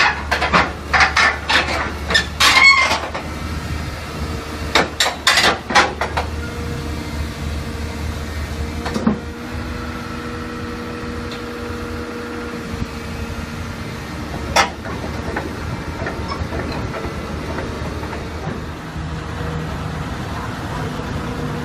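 A heavy vehicle's engine running steadily, with a cluster of loud knocks and clatters in the first few seconds, another cluster about five seconds in, and single bangs later on.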